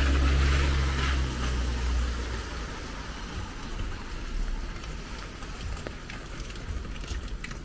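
Steady rain falling, with scattered drops ticking on hard surfaces. For the first two and a half seconds a vehicle's low engine hum passes and fades out.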